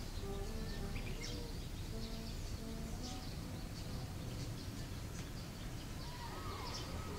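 Small birds chirping in short, high notes again and again over a steady low outdoor rumble.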